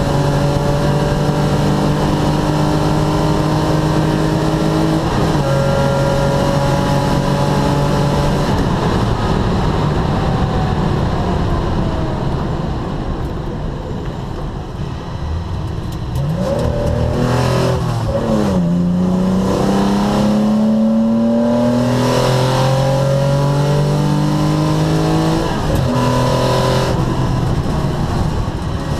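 Datsun 260Z's straight-six engine heard from inside the cabin at speed on a track lap: running high with an upshift about five seconds in, dropping off about halfway with quick falling-and-rising revs on the downshifts, then climbing again through the gears with shifts near the end.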